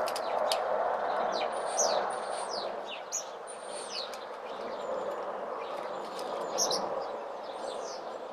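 Small birds chirping: short, quick falling chirps repeated again and again, over a steady rushing background noise, with a few sharp clicks in the first half-second.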